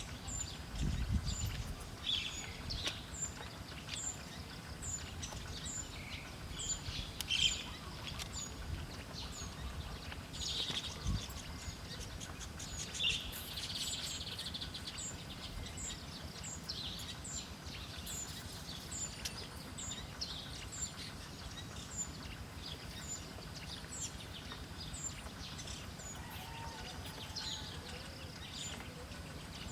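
Small wild birds chirping, with one short, high note repeated about every two-thirds of a second and irregular chirps from other birds mixed in. There are two brief low thumps, one near the start and one about eleven seconds in.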